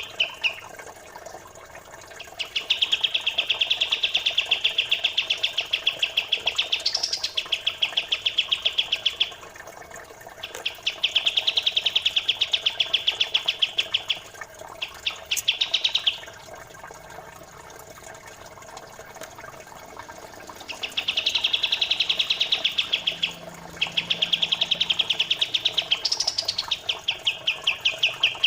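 A songbird's fast, rattling trill of rapid, evenly spaced high chirps, sung in long phrases of a few seconds each with short breaks, over a faint steady trickle of flowing water.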